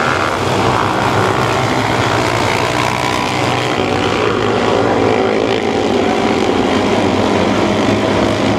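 A pack of mini sprint race cars running at speed, several small engines droning together at high revs with pitches that shift slightly as the cars go by.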